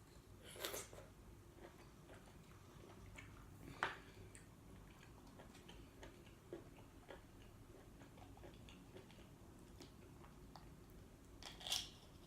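Quiet eating and food-handling sounds: scattered faint clicks from a cooked apple snail shell being handled as the meat is picked out, with three short, louder noisy sounds, about a second in, about four seconds in and near the end.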